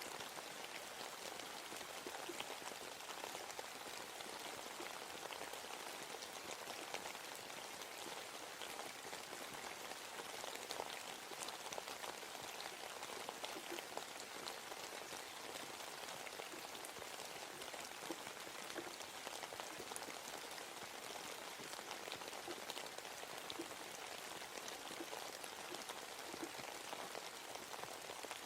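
Steady rain falling in a forest, a dense patter of many small drops hitting leaves and other surfaces.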